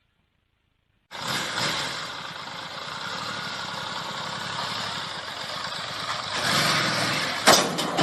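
A vehicle engine running with a heavy rush of wind and road noise, starting suddenly about a second in. It gets louder near the end, with a sudden loud peak.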